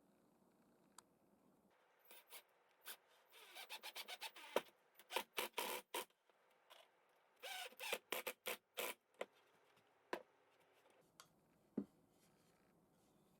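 Faint rubbing and scraping strokes of hand work on wood, in two quick runs of several strokes each, with a few single strokes after.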